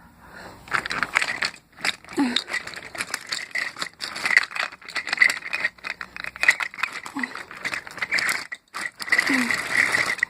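Toy engine and trucks rattling and clicking quickly and irregularly along the track.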